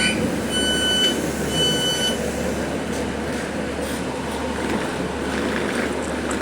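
Door warning beeps of a British Rail Class 156 diesel multiple unit: two high, steady beeps about a second apart, followed by the train's steady diesel engine rumble.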